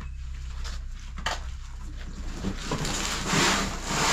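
A heavy appliance being shifted and slid, scraping and rubbing on wood, growing louder in the second half, with one sharp knock about a second in, over a steady low hum.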